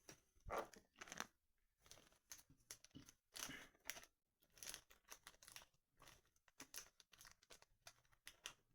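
Quiet, irregular crinkling and tearing of packaging being handled and unwrapped, in short separate bursts.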